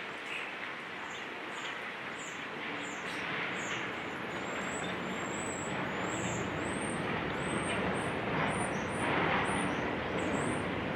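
Steady rumble of heavy engines, with a string of short high chirps repeating about once or twice a second from about four seconds in.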